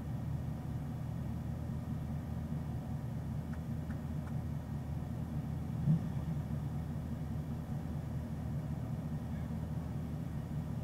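2017 Chevrolet Camaro SS 1LE's 6.2-litre LT1 V8 idling steadily while stopped, a low even hum, with one short thump about halfway through.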